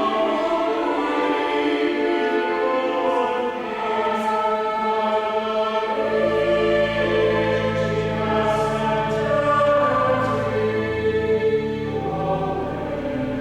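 Choir singing, with steady low bass notes joining about halfway through.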